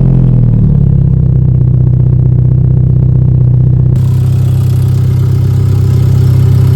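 Hyundai Genesis Coupe's turbocharged four-cylinder engine, just started with its air filter removed: the start-up rev drops within the first second and settles into a steady idle. About four seconds in, a brighter hiss joins the engine sound.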